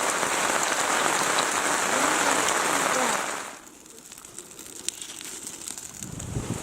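Loud, steady hiss of water, like rain, cutting in abruptly. About three and a half seconds in it drops to a quieter hiss with scattered small clicks.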